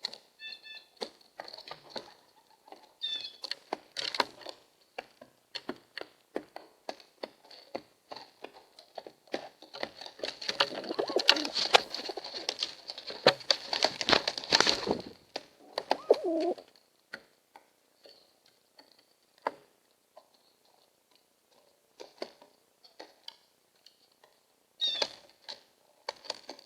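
Two pigeons fighting at a feeder: scattered wing slaps, pecks and scrabbling, building about ten seconds in to a loud flurry of flapping wings lasting some five seconds, followed by a short coo. A jay gives brief harsh calls near the start and twice near the end.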